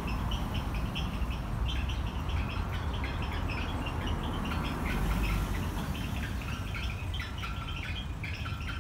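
Small birds chirping, many short irregular chirps throughout, over a steady low rumble.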